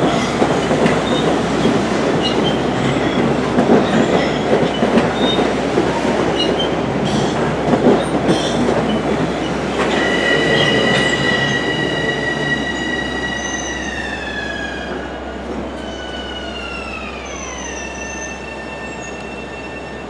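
Long Island Rail Road electric train moving past close by: a loud rumble of wheels on rail with scattered clicks and clatter. About halfway through, a high whine of several tones sets in, holds steady, then slides down in pitch over a few seconds as the sound fades.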